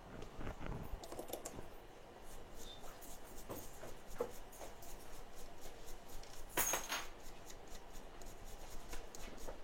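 Light scratching, rubbing and small clicks of hand tools on a phone logic board as it is cleaned after desoldering, with one louder scrape about seven seconds in.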